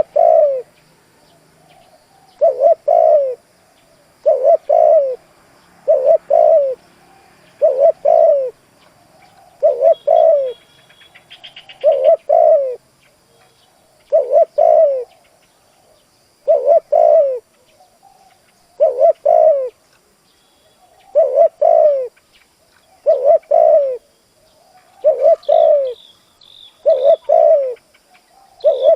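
Spotted dove cooing in a steady repeated song: short groups of two or three low, falling coo notes about every two seconds.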